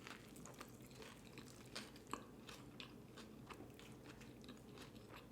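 Quiet, close-up chewing of a mouthful of burger with bacon and onions, with soft irregular wet clicks and small crunches.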